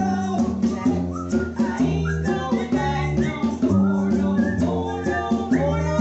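Live band playing a song, with guitar, drums and singing over a steady beat.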